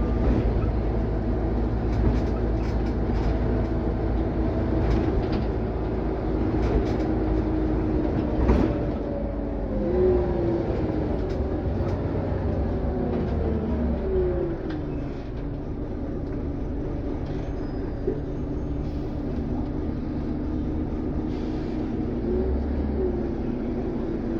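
Scania OmniCity CN94UB city bus running along, a steady low engine hum with scattered rattles and knocks. A few short whines rise and fall about ten to fifteen seconds in.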